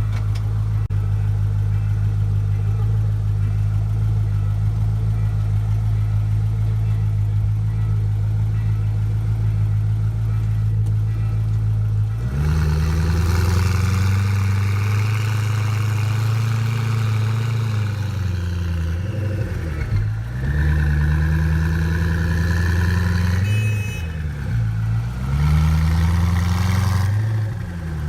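Koenigsegg Agera RS's twin-turbo V8 idling steadily, then revved up about halfway through and held at raised revs, the revs dropping and climbing back three times near the end.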